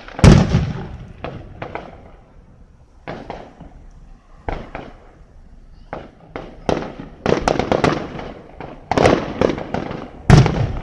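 Fireworks exploding: a string of sharp bangs, the loudest just after the start, with a quick volley of cracks in the second half and another loud bang near the end.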